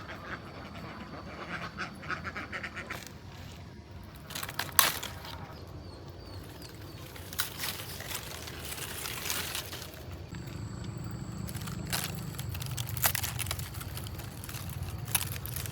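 Ducks quacking in scattered bursts.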